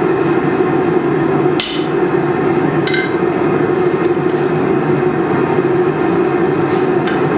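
Two ringing hammer strikes on steel, about a second and a half apart, over the steady running of the forge.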